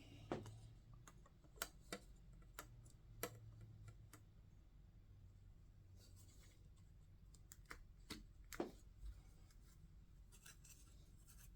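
Scattered sharp clicks and taps of a scale model airliner's wing being handled and fitted into the fuselage, a cluster of them in the first few seconds and a few more past the middle.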